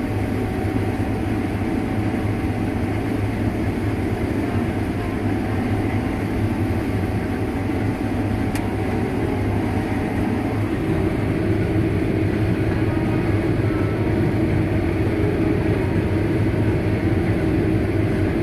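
Heavy harvest machinery running steadily with a constant engine drone, growing a little louder about eleven seconds in.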